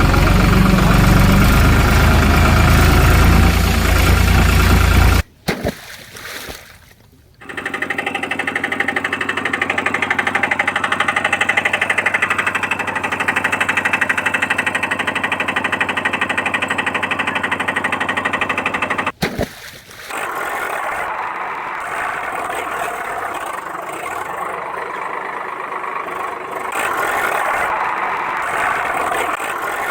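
Engine-like running sound, steady and fast-pulsing. It comes in three stretches that break off abruptly about five seconds in and again about nineteen seconds in.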